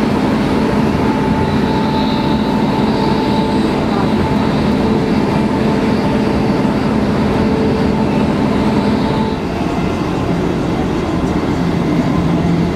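A passenger train running at speed, heard from inside the carriage: a steady rumble of wheels on the track with a droning hum. The hum dips and changes pitch slightly about nine and a half seconds in.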